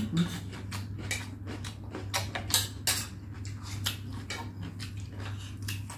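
Close-miked chewing of raw cucumber: irregular crisp crunches and wet mouth clicks, over a steady low hum.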